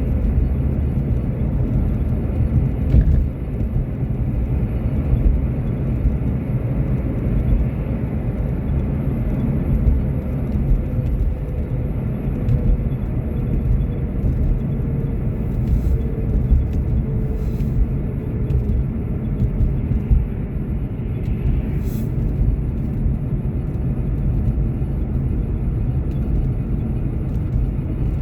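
A car being driven, a steady low rumble of engine and tyre noise, with a few faint ticks scattered through it.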